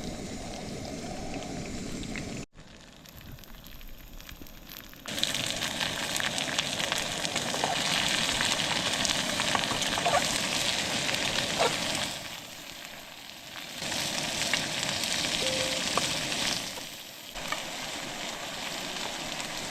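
Curry masala frying in a pan, sizzling and crackling. It comes in two loud stretches of several seconds each, with quieter gaps between them.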